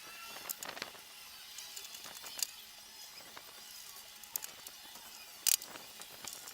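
Scattered sharp clicks and clinks of hand tools and small parts being handled, the loudest a double knock about five and a half seconds in.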